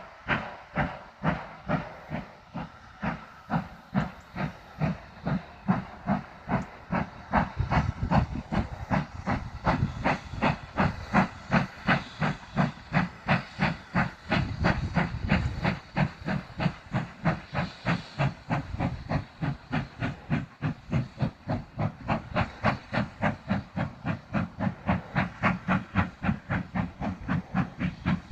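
GWR Large Prairie 2-6-2T tank engine 4110 pulling away under steam, its exhaust chuffing in even beats, a little over two a second and slowly quickening as it gathers speed.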